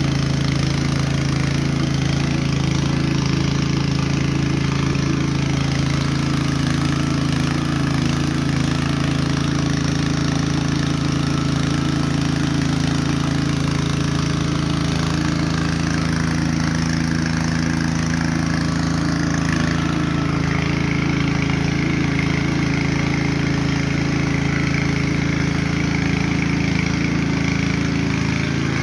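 An engine running steadily at a constant idle, a low even hum with no change in speed.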